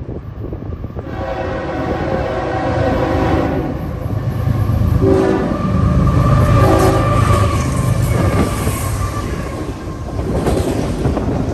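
Long freight train's locomotive sounding its multi-note air horn, a long blast and then shorter ones, over the heavy low rumble and wheel clatter of the train passing.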